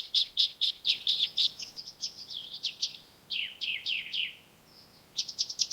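A bird chirping in quick series of short high notes, several a second, with a run of falling, downslurred notes in the middle. After a brief pause the fast chirping starts again near the end.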